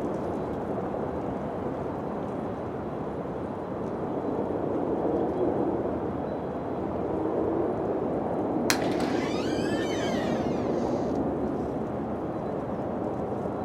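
Steady, low wind gusting and easing. About two-thirds of the way through comes a single sharp crack, followed by a brief wavering high-pitched sound lasting about two seconds.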